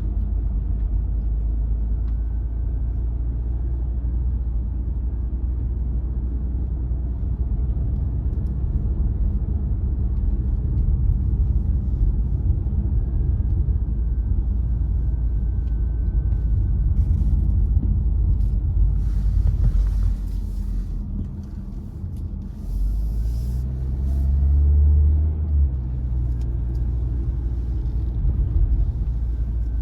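Car driving on winter roads: a steady low rumble of engine and road noise. About two-thirds of the way through there is some brief hiss, then a louder low drone that rises in pitch for a couple of seconds before the rumble settles again.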